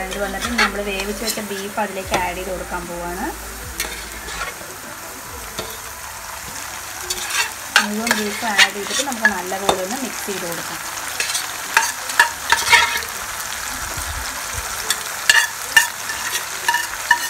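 Sliced onions frying in hot oil in a pan, with a steady sizzle and sharp clicks and knocks. From about seven seconds in, cooked spiced beef pieces go into the pan and the sizzling and clatter get louder.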